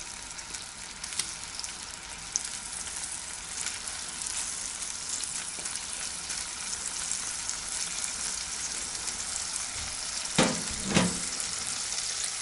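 Halloumi cheese slices frying in butter in a ceramic-coated pan: a steady sizzle with fine crackling that grows slightly louder. Two short knocks near the end are the loudest sounds.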